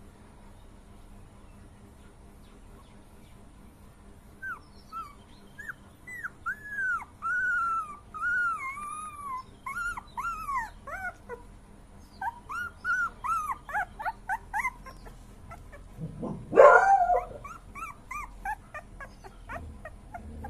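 Puppy crying: a long run of high, arching whines, some short and some drawn out, starting about four seconds in. About sixteen seconds in comes one louder yelp, then more short whines.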